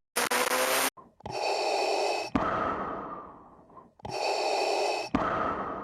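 Darth Vader's respirator breathing sound effect: two slow mechanical breaths, each a hissing inhale followed by a fading exhale, after a short burst of hiss at the start.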